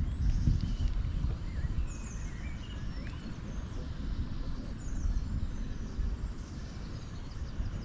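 Uneven low outdoor rumble on the microphone, with faint birdsong chirping through the middle.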